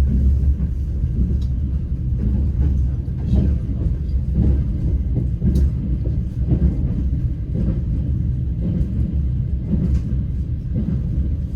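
Moving passenger train heard from inside the carriage: a steady low rumble, with faint clicks of the wheels over rail joints about once a second.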